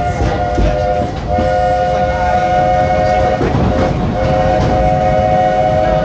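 Steam locomotive whistle of the Walt Disney World Railroad, sounding several notes at once in three blasts: a short one, one of about two seconds, and a longer one still going at the end. Underneath, the train runs with a low rumble and occasional clicks from the rails.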